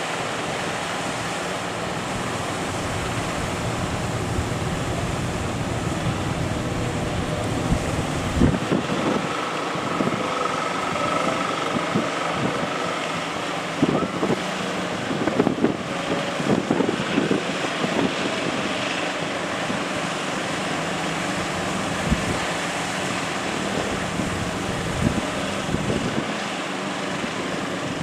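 Fishing boat engines running steadily over breaking surf, with wind buffeting the microphone. A cluster of sharp thumps comes through the middle.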